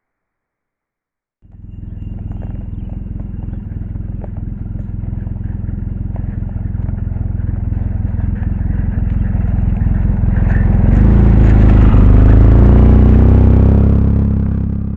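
Polaris RZR side-by-side's engine running as it drives, starting abruptly about a second and a half in and getting steadily louder, much louder and fuller from about eleven seconds in.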